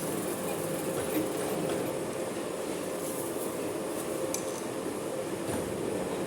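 Manual metal lathe running steadily with a continuous hum, a few faint ticks of metal against metal.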